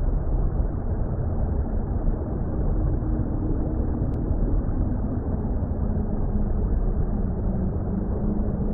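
Steady, deep underwater-style rumble of muffled water noise with no high end, and a faint low drone of held tones coming in about two and a half seconds in.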